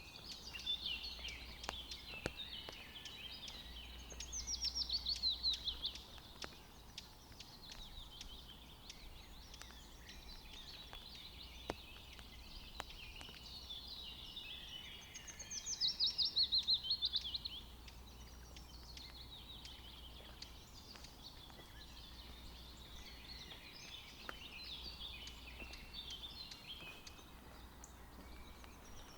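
Forest birds singing, with steady chatter throughout. One bird repeats a loud, quick run of falling notes lasting about two seconds, three times at roughly twelve-second intervals.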